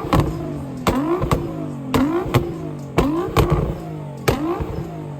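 A car engine revved in quick throttle blips about once a second, each rev rising and falling in pitch with a sharp crack at its start.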